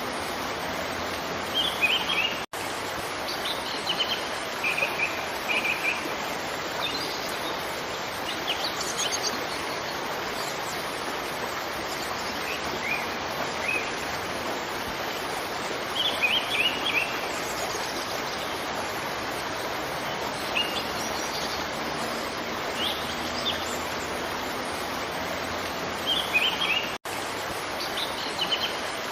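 Steady rush of a waterfall with small birds chirping in short, scattered bursts over it. The sound cuts out for an instant twice, once about two and a half seconds in and once near the end.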